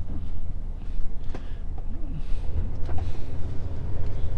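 Low, steady drone of a Scania S500 truck's engine and road noise heard inside the cab while driving, with a few light clicks and knocks from the cab.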